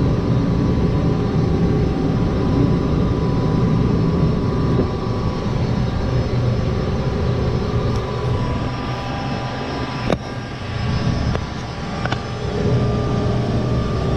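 Gas furnace running: a steady mechanical hum with a motor whine over a low rumble. There is a sharp click about ten seconds in, after which the sound eases briefly, and a lighter click about two seconds later.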